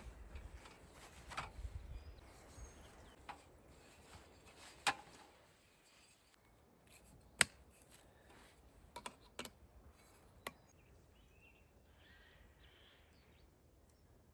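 Rustling at first, then a scattered handful of sharp clicks and taps, the loudest about halfway through, with faint bird chirps near the end.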